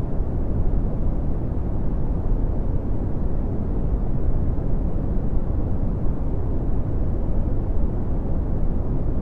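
Steady red (Brownian) noise: an even, deep rumbling hiss, strongest in the low end and falling off toward the treble, with no changes.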